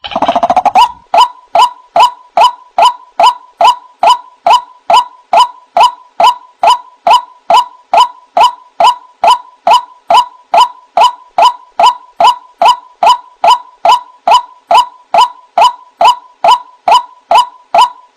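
White-breasted waterhen (ruak-ruak) calls used as a bird-trapping lure: a brief rapid rattle, then a steady, unbroken run of short 'wak' notes, about two a second.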